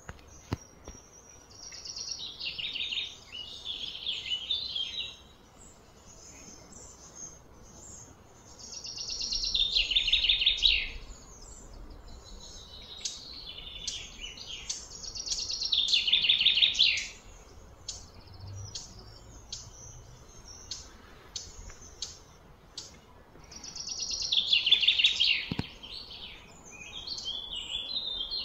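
Bird song: loud, rapid trilled phrases two to three seconds long, each swelling and then stopping, repeated four or five times with short high chirps between them.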